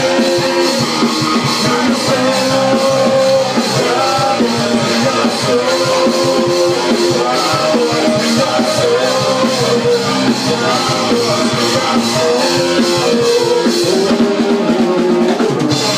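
Live rock band playing: drum kit beating steadily under guitar and bass. The cymbal wash thins out about two seconds before the end.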